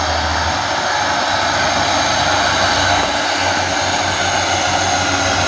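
Heavy truck diesel engine running with a steady low drone.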